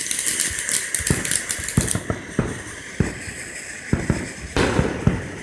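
Backyard consumer fireworks going off: an irregular run of sharp pops and crackles, with a faint steady high whistle over the first two seconds and a louder burst about four and a half seconds in.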